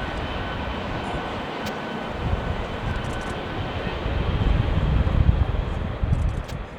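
Jet airliner engine noise: a steady rumble with a faint high whine that fades out about two seconds in, and the low rumble growing louder around the middle.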